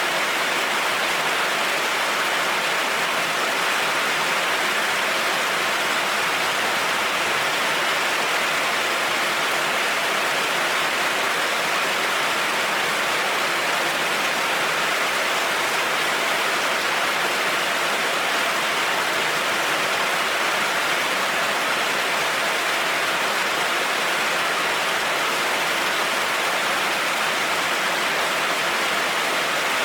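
Heavy rain falling on a road, a steady, even hiss with no thunder or other breaks.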